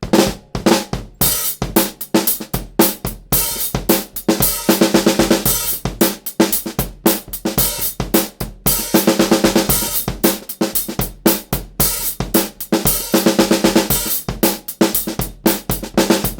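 Drum kit played as a steady groove, featuring a Mapex Black Panther birdseye maple 13" x 6" snare with a Remo Coated Ambassador head, with bass drum and Paiste Alpha 15" Rock Hats. The strikes are dense, and the snare rings with a clear tone. The playing starts suddenly.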